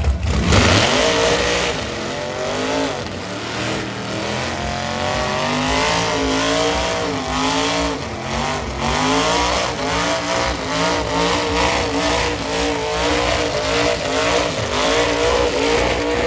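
Supercharged mega truck engines revving hard under load in a tug of war, their pitch climbing and dropping again and again as the throttle is worked.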